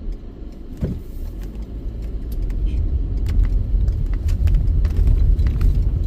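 Low rumble of a car driving slowly, heard from inside the cabin, with scattered light clicks and rattles.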